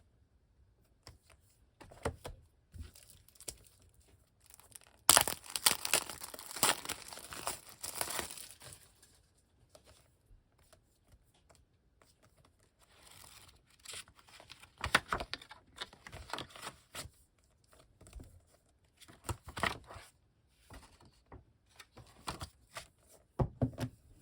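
Packaging being torn open and crinkled by hand in irregular bursts, the longest and loudest about five seconds in.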